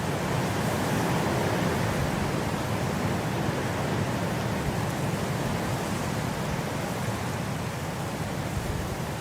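Snowstorm wind blowing steadily, a dense rushing that swells slightly in the first couple of seconds and then eases.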